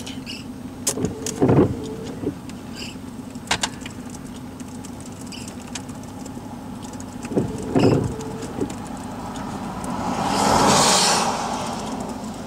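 A parked vehicle's engine hums steadily at idle, heard from inside the cab, with a few sharp clicks and knocks. A rush of noise rises and falls about ten seconds in.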